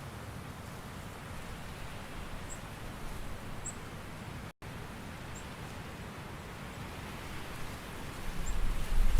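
Steady hissing outdoor nature ambience with a few faint high chirps. It cuts out for an instant about four and a half seconds in, and a low rumble swells, growing louder, near the end.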